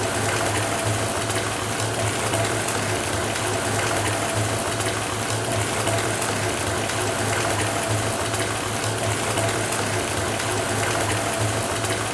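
Bathtub faucet running into a filling tub: a steady rush of water with a low hum underneath.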